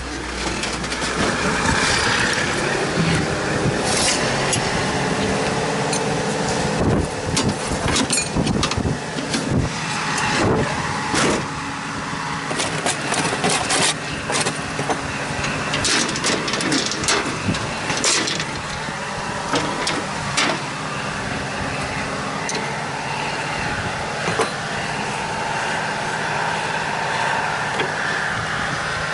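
T-150K tractor's diesel engine running steadily, with frequent metallic clanks and rattles over it, thickest through the middle stretch.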